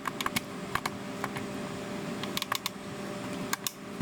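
A scattering of light, sharp clicks and taps in small clusters, over a steady background hum.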